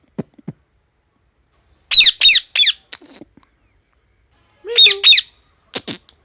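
Indian ringneck parakeet giving harsh squawking calls: a quick run of three about two seconds in, then two more about five seconds in.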